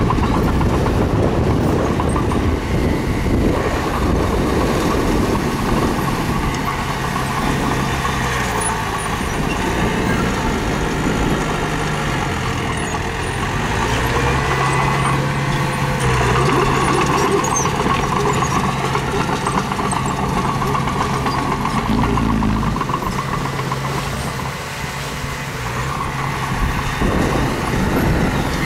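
Diesel engine of a mini bulldozer running under load as it pushes stone, its note shifting a few times as the load changes.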